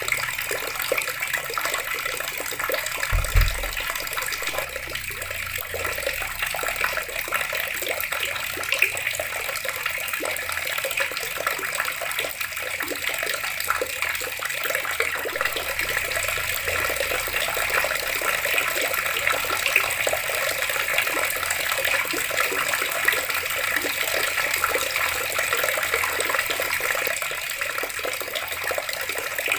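Water running steadily from a tap and splashing, with one brief low thump about three seconds in.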